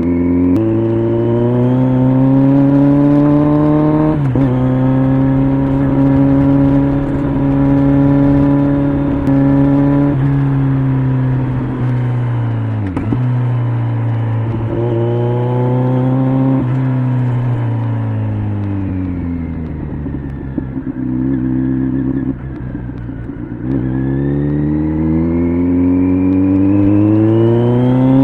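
Kawasaki Z900's inline-four engine through an LCI aftermarket exhaust, ridden hard: revs climb and drop back with upshifts in the first few seconds, hold steady, then fall away and pick up twice as the bike slows and speeds up. The revs sit low for a few seconds past the middle, then rise steadily again as it accelerates near the end.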